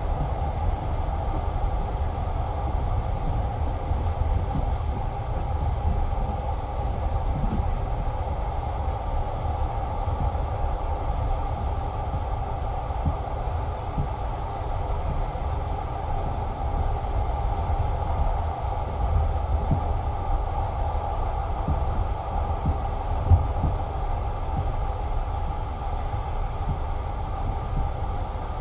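Passenger train carriage's wheels rolling on the rails at running speed, a steady rumble with a hum and scattered light knocks, and one sharper knock about three-quarters of the way through.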